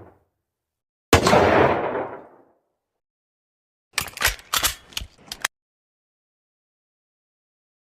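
Gunfire sound effects: one loud shot with a long decaying tail about a second in, then a couple of seconds later a short, uneven rapid burst of about seven sharp cracks.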